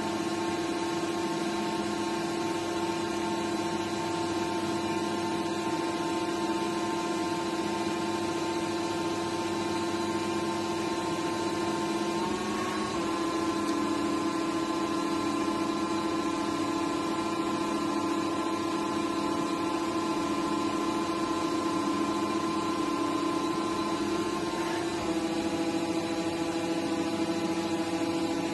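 Gildemeister NEF 600 CNC lathe running with a steady whine made of several tones over a hiss. The pitch steps up a little about twelve seconds in and shifts back down near the end.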